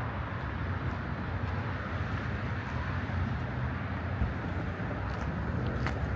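Steady outdoor background noise: an even low rumble with a hiss over it and a few faint clicks.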